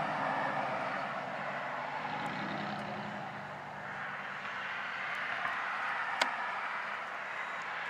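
Steady rushing traffic noise of passing vehicles, swelling and fading, with one sharp click about six seconds in.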